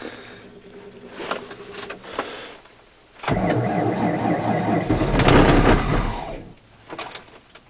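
Ford Escape being cranked for a cold start at −36 °C with its block heater not plugged in: a loud burst of starter cranking about three seconds long begins about three seconds in, then dies away about a second before the end.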